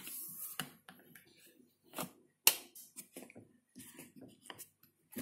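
Irregular clicks and knocks of a Bosch dishwasher being handled, the tablet dispenser and fittings clicking shut, with one sharp click about two and a half seconds in.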